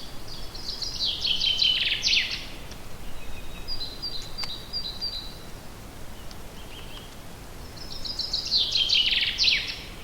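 Songbird singing in a forest: a phrase of rapid high notes running down into a fast trill, sung once at the start and again about eight seconds in, with fainter high chirps between the phrases over a steady background hiss.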